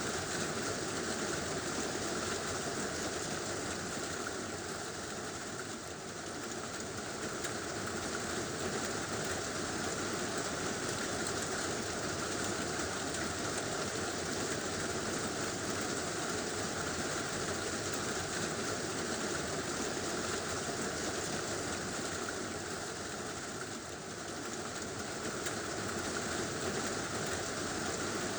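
Heavy rain drumming on a tin roof, a dense steady hiss that eases slightly twice.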